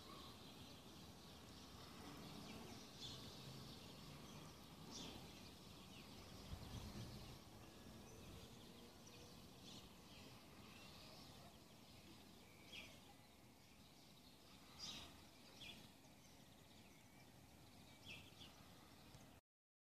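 Faint outdoor ambience with scattered short bird chirps every few seconds. The sound cuts off suddenly near the end.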